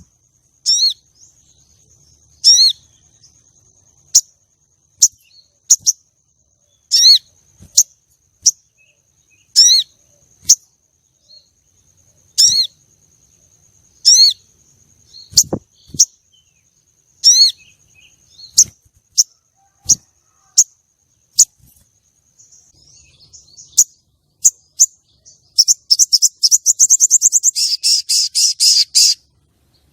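Female sogon calling: short, sharp, down-slurred notes repeated every one to two seconds, ending in a fast rattling trill near the end. A faint steady high-pitched tone runs under the first two-thirds.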